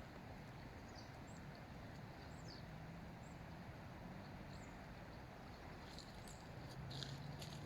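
Small birds chirping in short, high calls over a faint steady low hum that grows louder near the end, with a few clicks just before the end.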